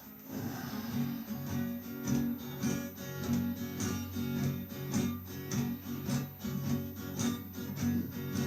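Acoustic guitar strummed in a steady rhythm, playing a chordal introduction with a moving bass line and no singing.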